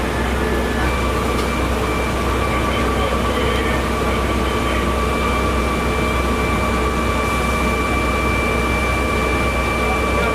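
A heavy engine running steadily with a deep hum, with a constant high-pitched whine on top.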